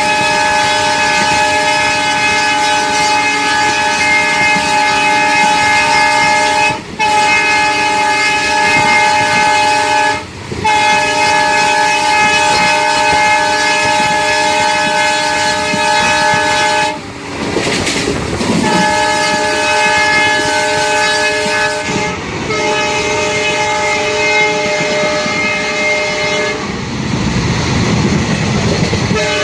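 Train horn sounding in long, steady blasts, broken by about five short gaps, over the rumble of the moving train.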